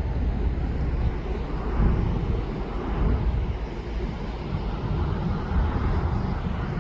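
Wind buffeting the microphone while riding a bicycle: a low, uneven rumble.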